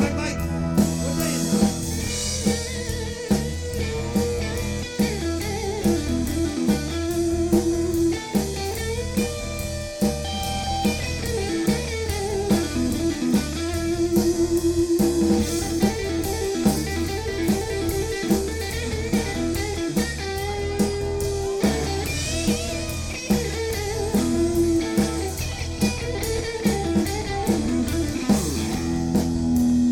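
Live band playing an instrumental blues-rock passage: electric guitar lines over a steady drum-kit beat and bass.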